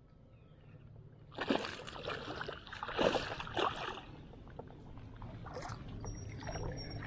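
Water splashing and sloshing in irregular bursts, starting about a second and a half in and loudest around three seconds, then dying down to softer splashes.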